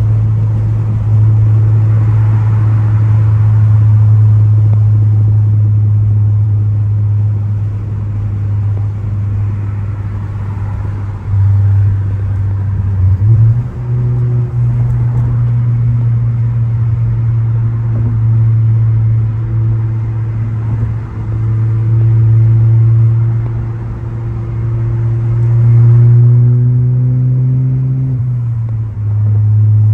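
Turbocharged Ford Focus ST engine and exhaust droning under way while driving, a steady low note that steps up in pitch about halfway through, climbs near the end as the car accelerates, then drops back as the throttle is lifted or a gear is changed.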